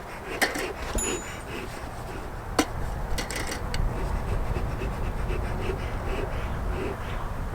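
Bee smoker bellows pumped in quick repeated puffs, a breathy whoosh about two to three times a second, to get the fuel smouldering. A few sharp clicks come in the first few seconds.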